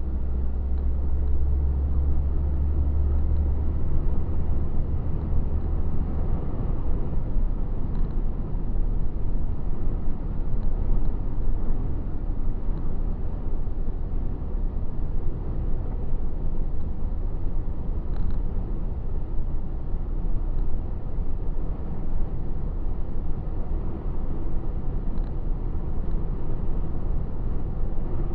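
A truck driving on the road: a steady low engine rumble with road noise. A deeper engine hum is strongest for the first few seconds, then eases.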